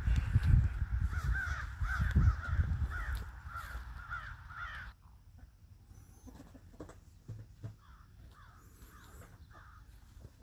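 Harsh bird calls repeated several times a second over a low rumble on the microphone; the sound drops abruptly about halfway through, leaving fainter calls.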